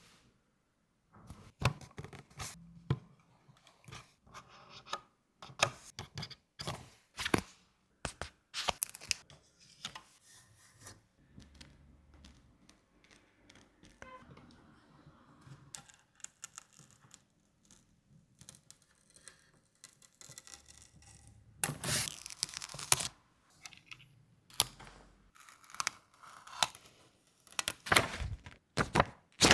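Packaging being opened and handled by hand: irregular tearing, crinkling and sharp clicks, with the longest, loudest stretches of rustling about two thirds of the way through and near the end.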